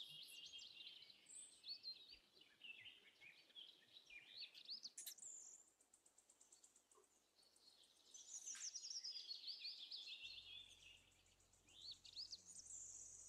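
Faint songbird chorus: several small birds chirping and trilling in quick, high-pitched rising and falling notes, in three bouts with short lulls between.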